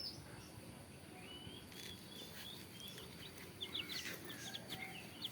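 Faint, high chirps from small birds, short notes repeating in loose runs, a little busier in the second half, over a low background hiss.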